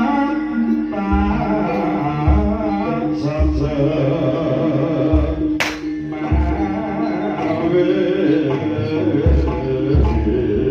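Live Javanese gamelan music of the kind played for jaranan dance: a held melody with a singing voice over regular deep drum strokes. One sharp click about five and a half seconds in.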